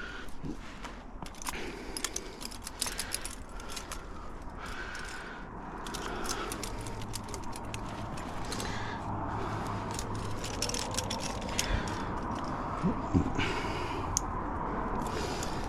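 Metal climbing gear jangling and clicking: carabiners and protection on a trad rack knocking together as it is handled, with irregular clinks and some scraping.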